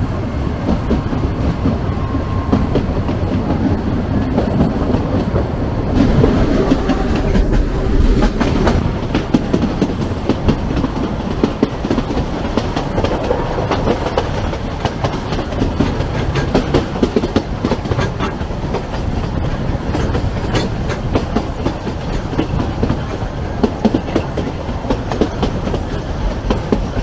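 Narrow-gauge (2 ft 6 in) passenger train coaches running on the track, their wheels clattering steadily over the rails with a constant stream of irregular clicks, heard from an open coach window.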